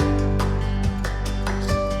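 Background music with plucked acoustic guitar and a steady beat, a louder passage starting right at the beginning.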